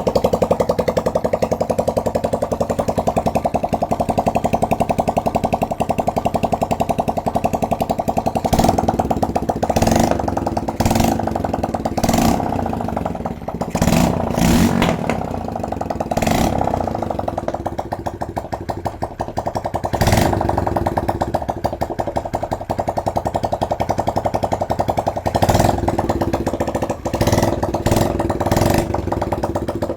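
Bare motorcycle engine running on the bench, fed straight from its CDI, ignition coil and battery without a wiring harness, with a brief rise in speed around the middle. Sharp clacks cut through it now and then.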